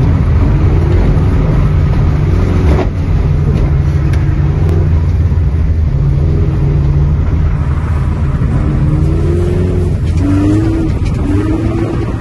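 Rally car engine heard from inside the cabin while driving, holding fairly steady revs, then rising and falling in pitch a few times over the last few seconds as the driver works the throttle.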